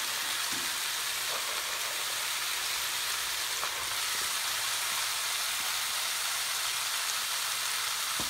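Pork pieces and freshly added chopped onion, bell pepper and celery sizzling steadily in a hot cast iron pot.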